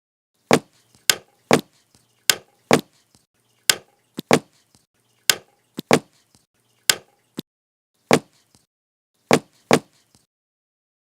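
A sound effect of sharp wooden whacks, about fifteen of them in an uneven rhythm, some in quick pairs, with dead silence between them.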